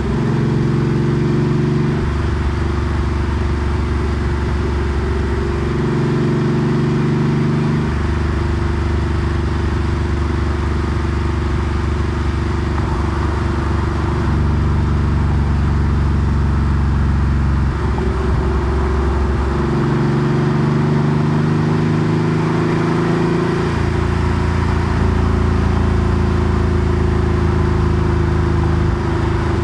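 Porsche 964 Carrera 2's air-cooled 3.6-litre flat-six running through a center straight muffler while driving. The engine note holds steady for a few seconds at a time, then steps up or down in pitch several times as the revs change.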